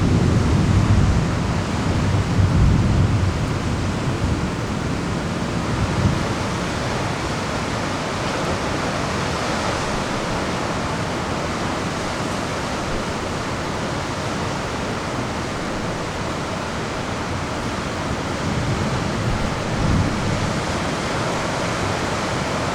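Steady hiss of heavy rain in a thunderstorm, with a low rumble in the first few seconds and again near the end.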